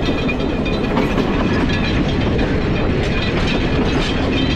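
Passenger train running on the rails, a loud, steady clatter of wheels and coaches.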